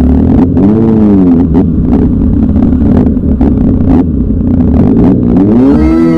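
Sport motorcycle engine revving up and easing off as it accelerates through traffic, once about a second in and again near the end, over a steady low rumble.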